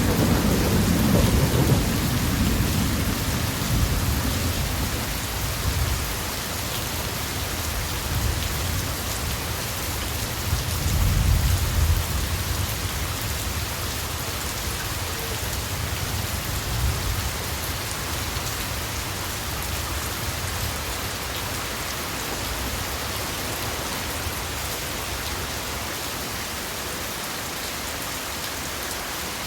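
Steady heavy rain falling, with low rolls of thunder at the start and again about eleven seconds in that fade out, leaving only the rain.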